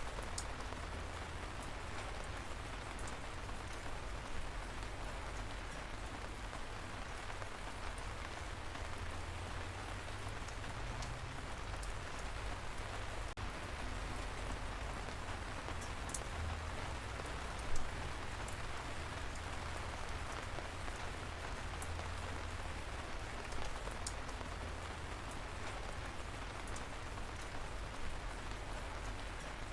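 Light rain falling steadily, an even hiss of drops with scattered sharp drip ticks. One louder tap comes about 18 seconds in.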